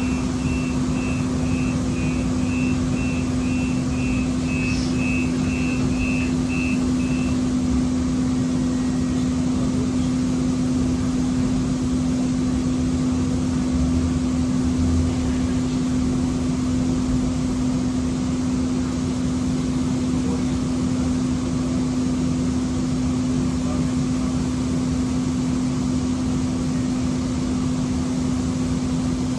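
Siemens S200 light rail vehicle running with a steady electric hum over a constant low drone. For about the first seven seconds a series of short, high electronic beeps sounds at about two per second.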